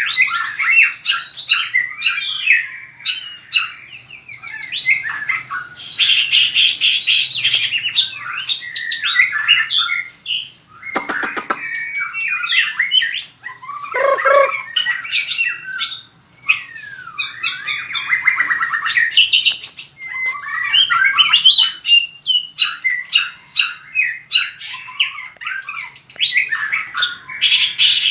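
White-rumped shama singing continuously, a varied run of clear whistles, fast trills and sliding notes with only brief breaks. A quick run of ticking notes comes about eleven seconds in.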